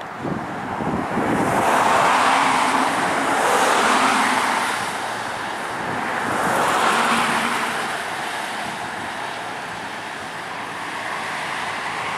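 Road traffic: cars passing by, the tyre and engine noise swelling and fading about three times.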